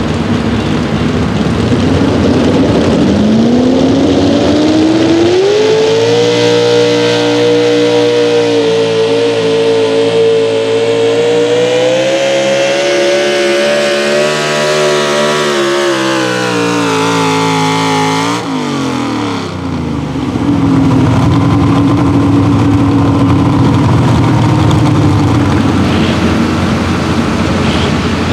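A pro stock four-wheel-drive pulling truck's engine revving up and running hard at high revs down the track, its pitch slowly sagging under the load of the sled. The revs then drop sharply about two-thirds of the way in, after which an engine runs at a lower steady pitch and starts revving up again near the end.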